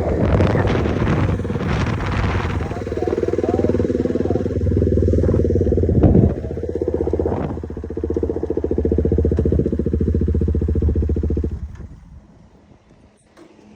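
KTM motorcycle with a newly fitted aftermarket exhaust, its engine running steadily, with wind on the microphone at first. The engine sound cuts off suddenly near the end.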